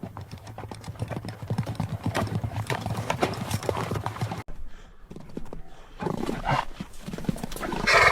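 Hooves clattering rapidly over hard ground, cutting off abruptly about halfway through, then starting again, with a loud animal call near the end.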